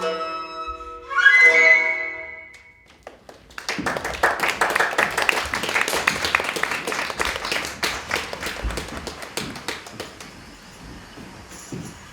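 A wind instrument plays a few notes and slides up to a briefly held high note. After a short pause comes about six seconds of dense crackling noise made of many quick clicks, which fades away.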